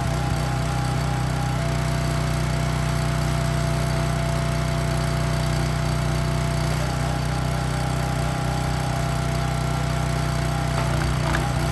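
Gas-engine log splitter running steadily.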